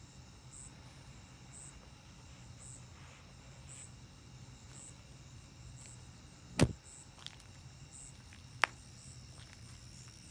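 Night insect chirping, a short high chirp about once a second, over a low steady hum. A sharp knock about two-thirds of the way in is the loudest sound, and a lighter click follows about two seconds later.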